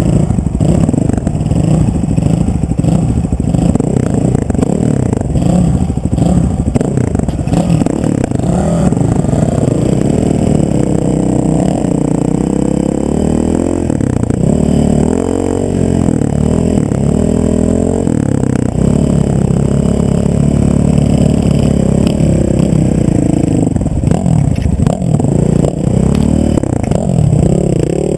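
A motor vehicle's engine running under way, its pitch rising and falling as it speeds up and slows, with clattering and rumbling noise over it.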